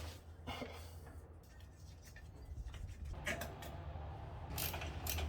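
Faint clicks and light metallic taps of hand tools working on the engine, becoming busier about three seconds in, over a low steady hum.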